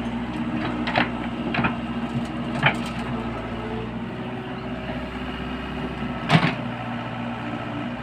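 Excavator's diesel engine running steadily, with four sharp knocks, the loudest about six seconds in.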